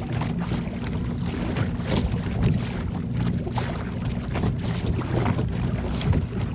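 Wind buffeting the microphone in gusts over a low, rough rumble, with water sounds against a small boat. A faint steady hum underneath stops about four seconds in.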